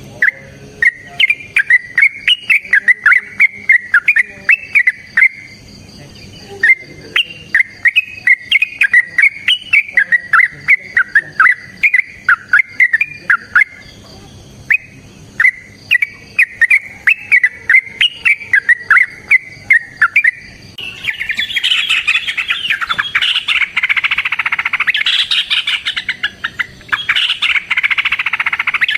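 Yellow-vented bulbul (trucukan) singing: short, quick bubbly phrases repeated with brief gaps, then from about 21 seconds in a louder, dense, unbroken run of rapid chattering notes, the long 'ropel' song used to provoke rival bulbuls into answering.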